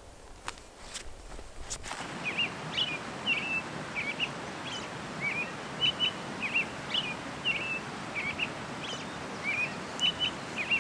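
A few soft clicks, then about two seconds in a steady outdoor rush of noise begins, with a bird giving short high chirps about twice a second.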